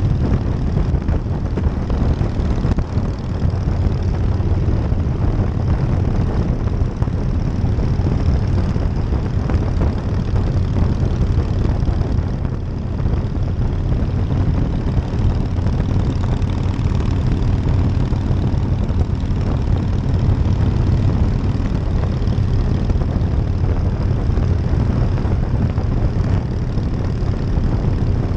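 1999 Harley-Davidson Night Train's V-twin engine running steadily while the motorcycle is ridden, with rushing wind over the top.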